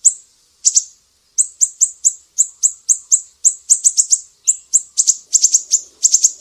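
Sumatran siri-siri bird calling in a series of sharp, high chirps, about three a second, that speed up into quick rattling clusters near the end.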